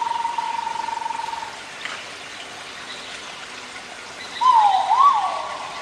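Forest ambience with a steady rushing hiss like running water. A bird's held whistle fades out about a second and a half in, and a louder swooping whistled call comes near the end.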